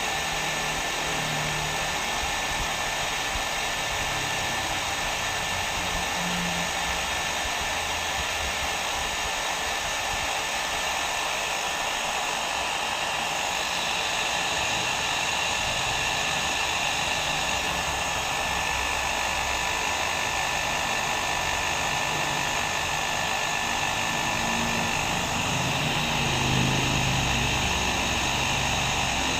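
Hair dryer blowing steadily: an even rushing hiss with a faint steady whine running through it.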